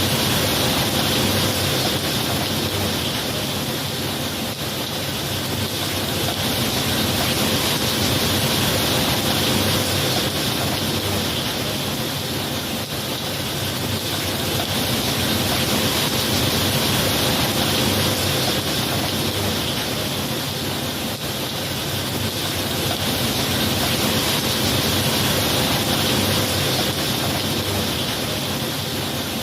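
Steady heavy rain, a dense hiss that swells and eases gently every seven or eight seconds, with no distinct thunderclap.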